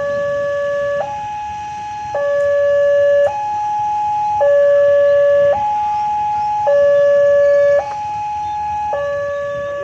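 Railway level-crossing warning alarm sounding continuously, a two-tone electronic signal that alternates a lower and a higher tone about once a second, warning that a train is approaching.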